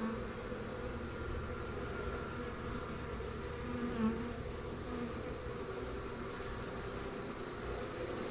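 Honey bees buzzing steadily: an even hum of many wings from a small swarm around an opened hive box.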